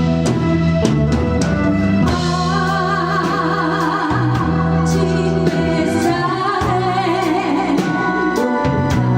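Live band playing a song: drum kit, bass and organ-toned keyboard, with a wavering melodic lead through the middle that sounds like singing.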